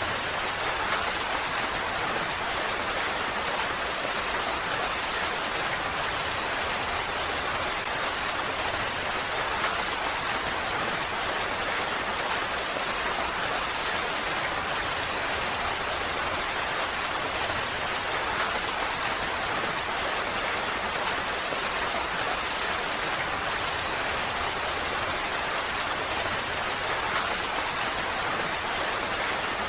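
Steady, even rain falling, with an occasional louder drop.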